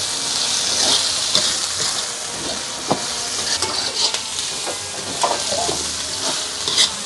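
Ground spice paste with leek, kaffir lime leaves and lemongrass sizzling steadily as it is stir-fried in hot oil, with a few clicks and scrapes of the stirring utensil against the pan.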